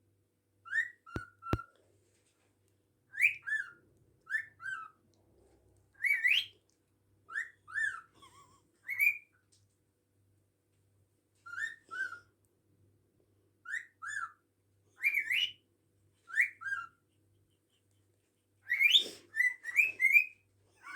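Pet bird whistling short two-note phrases, a rising note then a falling one, over and over like catcalls, with a pause midway and a quicker run near the end.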